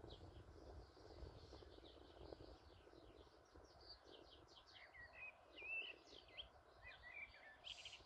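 Faint bird calls: quick high chirps and twittering phrases, busiest in the second half, over a low rumble of wind on the microphone.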